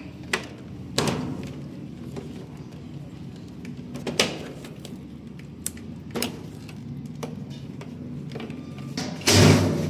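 Hands working on a Whirlpool washing machine's cabinet and parts: scattered knocks and clatter of metal and plastic over a steady low hum, with a louder half-second scrape or rush about nine seconds in.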